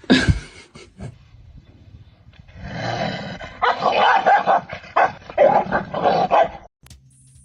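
Dog barking: a couple of sharp barks at the start, then a dense run of rough, rapid barks from about two and a half seconds in that stops shortly before the end.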